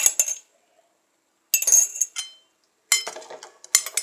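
Clinking and clattering of a utensil and containers knocked against a bowl, in short bursts: one at the start, one about a second and a half in, and a longer run from about three seconds in.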